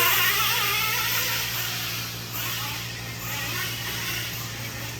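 Small fuel engines of radio-controlled racing trucks buzzing around the track, their high whine rising and falling as they throttle up and back off, loudest early on.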